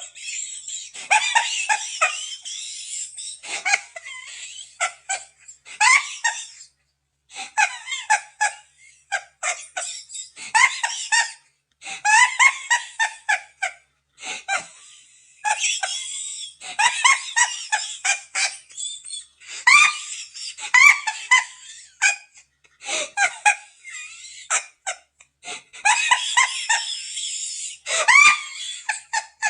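High-pitched laughter in repeated bouts, broken by brief pauses.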